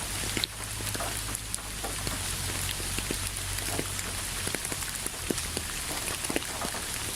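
Steady rain falling, with many separate drops landing close by as short sharp ticks over an even hiss and a low steady rumble underneath.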